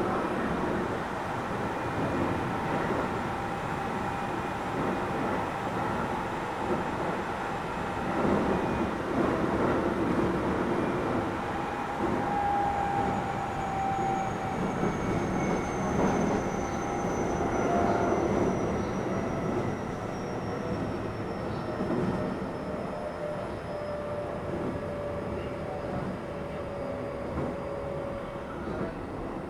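Keio 7000 series electric train running on the line: steady wheel-on-rail running noise with motor tones. A faint high tone falls slowly through the middle.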